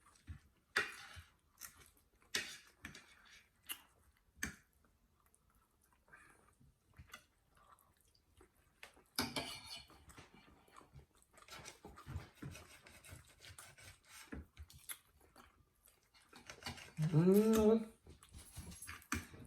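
Mukbang eating sounds: sharp clicks of cutlery on a plate, with chewing in between. Near the end comes a louder drawn-out pitched sound from a voice or a dog, lasting a second or two.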